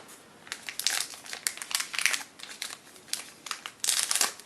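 Irregular crinkling and rustling of baseball trading cards and their packaging being handled and flipped through.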